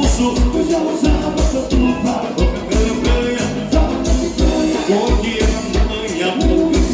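Live gaúcho dance music from an accordion-led band, with a steady bass beat of about three pulses a second under the melody.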